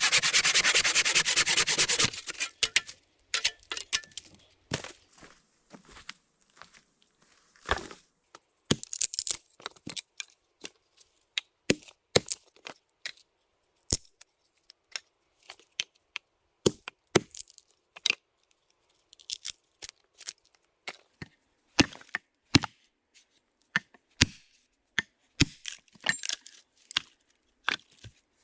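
A hand saw cutting wood in quick even strokes, stopping about two seconds in. Then an axe chopping wood in sharp, irregular knocks, about one or two a second, some loud and some light.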